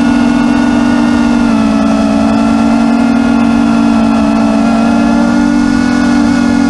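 Quadcopter drone's rotors humming steadily, several propellers at slightly different, gently shifting pitches.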